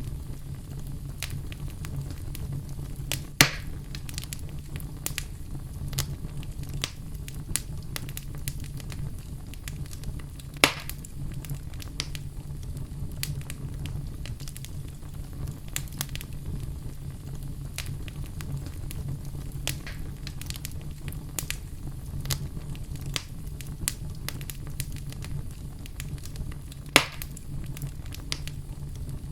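Fire burning in a fireplace, crackling continuously over a steady low rumble, with three louder pops: about three seconds in, about eleven seconds in, and near the end.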